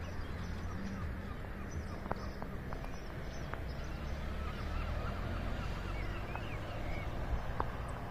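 Birds calling, a string of short wavering cries, over a steady low rumble of outdoor background noise.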